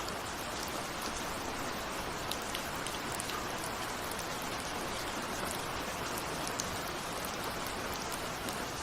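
Steady rain, with many small drops pattering on a window pane, no thunder.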